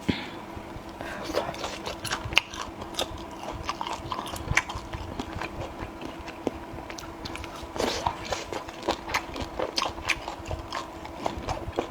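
A person biting and chewing food close to the microphone: irregular wet clicks and smacks of the mouth, with a faint steady hum underneath.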